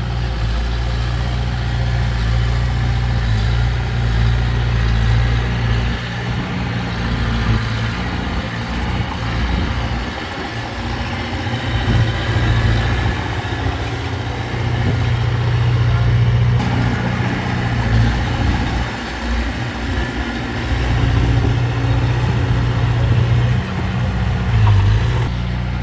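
Heavy diesel engine of earthmoving machinery running, a low drone whose level rises and falls slightly as it works.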